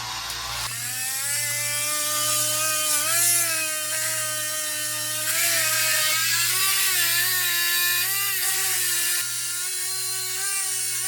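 Electric power-tool motor spinning up about a second in, then running with its pitch dipping and wavering now and then.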